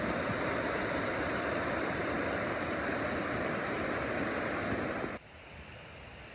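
Waterfall rushing, a steady dense wash of falling water. About five seconds in it cuts off abruptly to a much quieter hiss.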